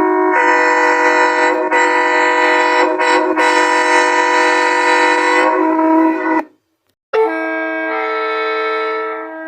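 A train horn sounding a chord of several notes in one long blast of about six seconds, cutting off suddenly. After a short gap comes a second blast of about two seconds.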